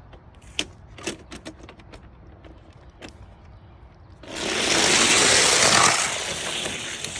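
Die-cast toy race cars released down a multi-lane plastic racetrack. A few light clicks come as they are set in place. About four seconds in, a loud rolling rattle of the cars running down the track starts and fades in its last second.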